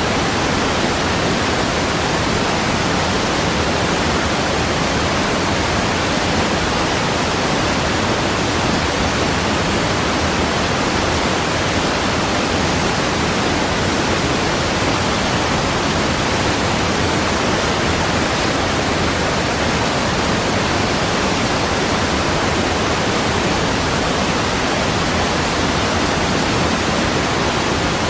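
Steady rush of water, an even hiss across all pitches that does not change in level.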